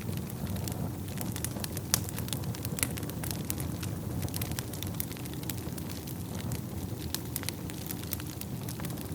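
Wood fire burning in a fireplace: a steady low rumble of flames with frequent irregular sharp crackles and pops, one louder pop about two seconds in.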